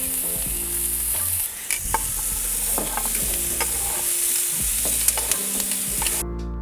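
Bacon-wrapped sausages and jalapeños sizzling steadily as they fry in olive oil, with scattered clicks of a utensil. The sizzle cuts off near the end. Soft background music plays underneath.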